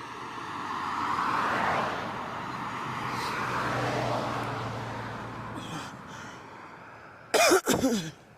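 A vehicle passing by, its sound swelling and then fading over several seconds, followed near the end by two loud, short coughs from a person.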